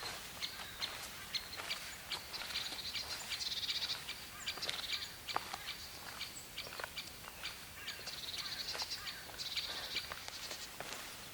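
Footsteps walking on a forest path, a short crunch at each step, with birds calling in the background in a high, patchy chirping.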